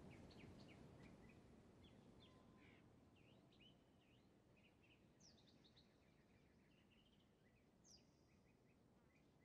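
Near silence with faint birds chirping in the background: scattered short chirps, with a couple of higher, downward-sliding whistled notes about five and eight seconds in.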